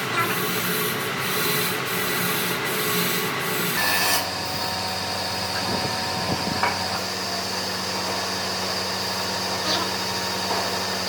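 An electric power tool runs steadily with a motor hum under the noise of abrasive sanding against wood. Its sound shifts about four seconds in, when a lower hum comes in and the high hiss drops back.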